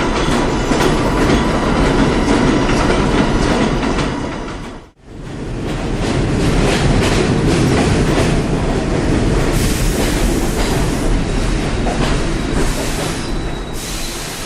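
Subway train running along the track, its wheels clicking over rail joints with a steady rumble. The sound drops out suddenly for a moment about five seconds in, then comes back.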